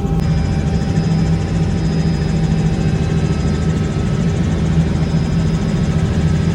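Helicopter running, its engine and rotor making a steady, loud low drone.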